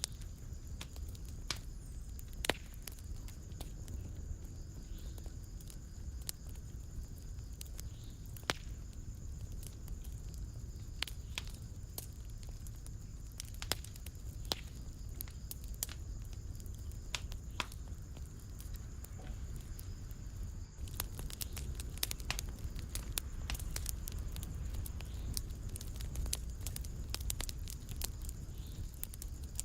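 Wood fire in a fireplace crackling, with scattered sharp pops over a low steady rumble. About two-thirds of the way through, the crackling abruptly becomes denser.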